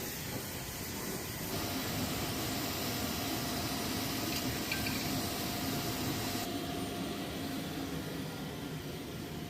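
Steady rushing noise with a faint hum under it; the noise turns brighter about a second and a half in and duller again about two-thirds of the way through.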